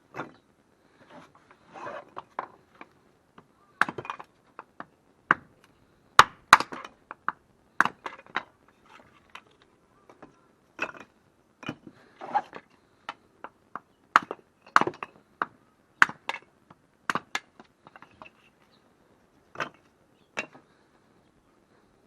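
Firewood being worked by hand: irregular sharp wooden knocks and clacks, sometimes in quick clusters, with the loudest strikes about six and fifteen seconds in.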